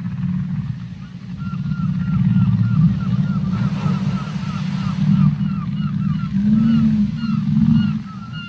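Whale calls: a rapid series of short chirping whistles, about four a second, starting about a second and a half in and thinning out after the middle, with higher chirps joining near the end. Under them runs a steady low rumble of deep ocean water.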